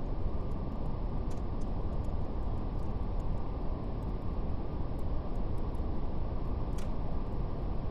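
Steady brown noise, a deep even rumbling hiss with nothing above the low-mid range, and a faint fireplace crackle of scattered small pops over it.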